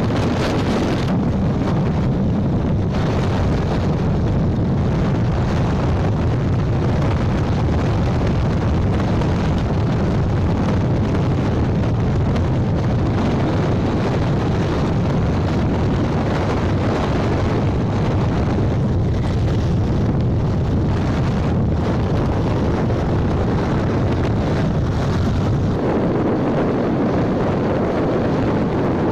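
Wind buffeting the microphone on a moving motorbike: a loud, steady rush strongest in the low end, with vehicle and road noise beneath it.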